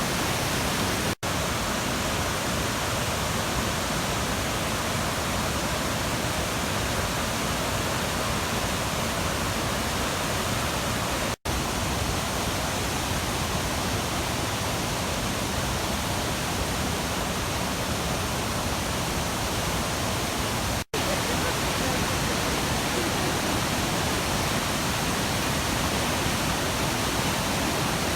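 Steady rush of white water at Nymph Falls on the Puntledge River. The sound drops out for an instant three times.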